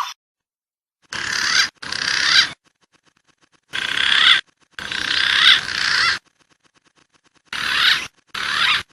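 Wild pigeon calls from a bird-lure recording, in three pairs of short bursts with curving whistled notes, each burst starting and stopping abruptly with silence between.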